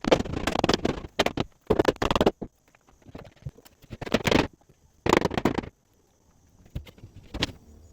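A series of short, rough scraping or rustling bursts from hands-on construction work, five in all and roughly a second apart, the last one brief. A faint steady high tone runs underneath.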